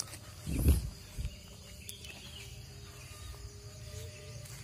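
Quiet rural outdoor ambience with faint insects and birds, broken by a brief low rumble about half a second in and a smaller one a little later.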